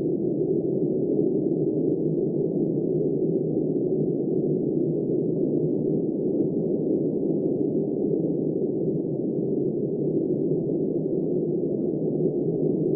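Steady, muffled snowstorm wind noise with no high hiss and no distinct gusts.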